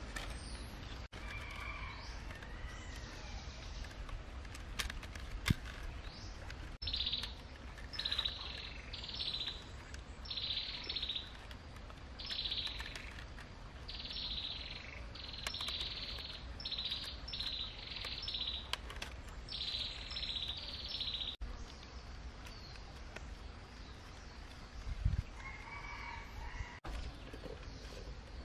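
Wild birds calling: short, high trilling phrases repeat about once a second for some fifteen seconds, with a few lower calls near the start and near the end. Light clicks of bamboo strips being handled are heard now and then.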